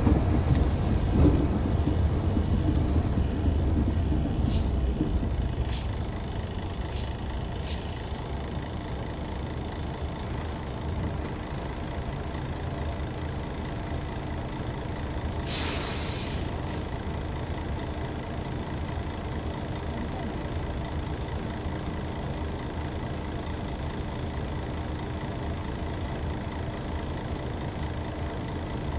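Hyundai Universe coach's D6CC Powertec inline-six diesel engine falling from a loud run to a steady idle drone over the first few seconds. A few light clicks follow, and about sixteen seconds in comes a short hiss of released air from the air-brake system.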